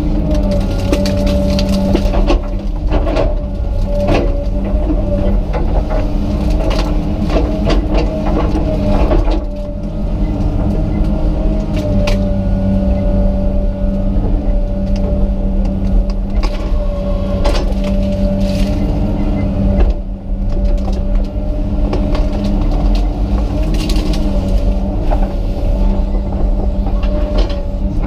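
Komatsu PC200 excavator's diesel engine running steadily under load, with scattered cracks and crunches as it works the trees and stumps.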